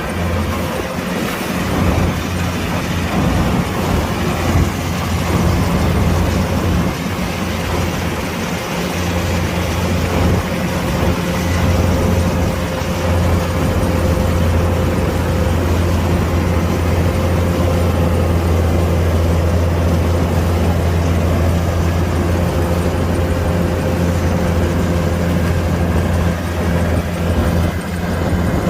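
Kubota DC-105X combine harvester running steadily, its diesel engine and threshing machinery making a loud, even drone with a faint steady whine above it.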